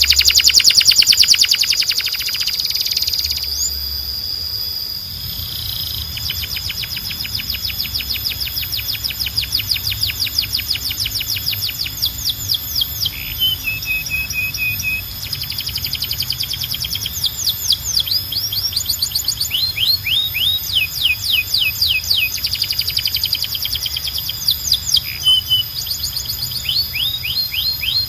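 Canary singing: fast rolling trills of rapidly repeated notes, then runs of quick downward-sweeping whistled notes, several a second, over a steady high tone.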